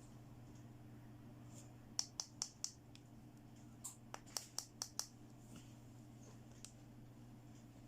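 Small plastic toy pieces being handled: a quick run of four light clicks, then after a short pause a run of about six more, over a faint steady hum.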